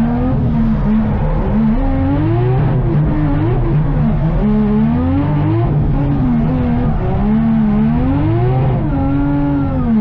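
Car engine revving up and falling back again and again, with a steadier low engine drone underneath.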